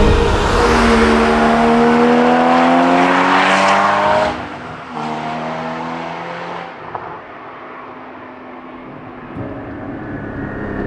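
Porsche 981 Cayman GT4's naturally aspirated 3.8-litre flat-six with sports exhaust pulling hard under load for about four seconds. The note cuts sharply about four seconds in, pulls again briefly, then drops to a quieter run and rises a little near the end.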